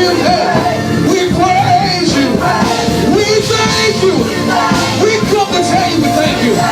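Live gospel praise-and-worship music: a band playing with voices singing.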